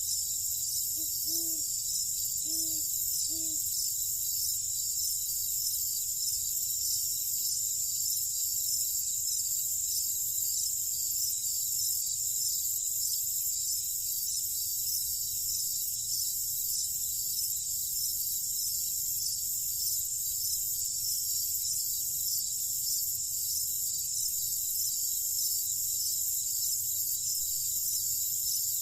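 A steady night chorus of crickets or similar insects, a continuous high-pitched trilling. Three short low calls come about a second in, over a faint low rumble.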